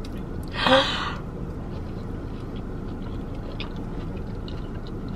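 A person chewing a mouthful of elote topped with crushed Flamin' Hot Cheetos, with faint scattered crunchy clicks, after a short breathy vocal sound about a second in. A steady low hum runs underneath.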